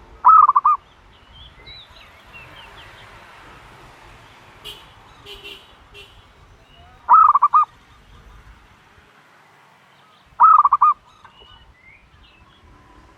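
A dove at its nest giving three short, loud, rapidly pulsed calls, each about half a second long: one at the start, one about seven seconds in and one near the end. Faint chirps of other birds are heard between them.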